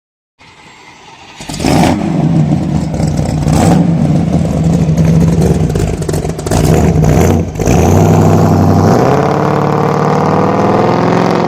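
A car engine running loud and revving, coming in strongly about a second and a half in, with its pitch climbing steadily over the last couple of seconds.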